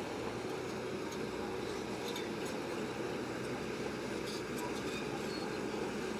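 Bulldozer's diesel engine running steadily under load, with a few faint clicks from about two seconds in.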